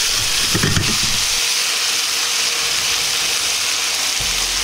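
Pork slices and bean sprouts sizzling steadily in a hot pan, with a light click about a second in.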